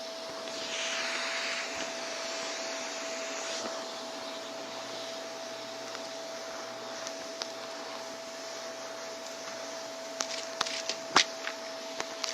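Vacuum cleaner running with a steady motor whine over the rush of suction, which is brighter and hissier for the first few seconds. Several sharp clicks and crackles near the end, typical of debris crunching up through the brushroll.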